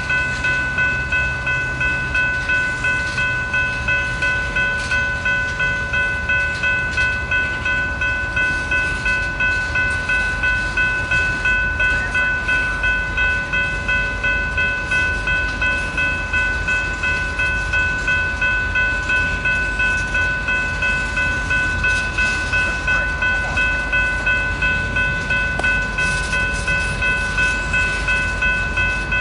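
Tank cars of an oil train rolling past with a low rumble and wheel clatter, while a grade-crossing bell rings steadily in an even rhythm of about two strikes a second.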